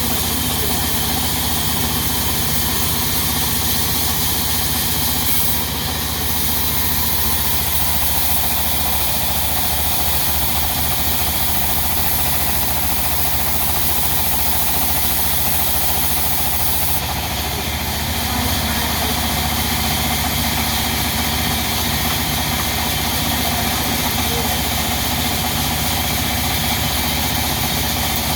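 Stationary diesel engine of a sawmill running steadily at an even, low-pitched speed.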